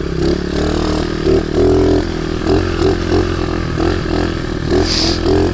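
Baja pit bike's small single-cylinder engine running steadily while the bike is ridden, its pitch shifting a little with the throttle.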